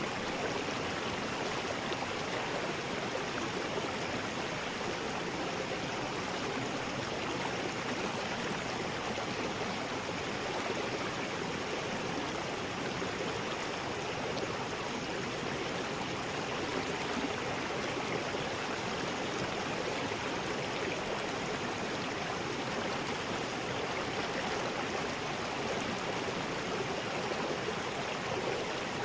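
River rapids rushing, a steady, even roar of water.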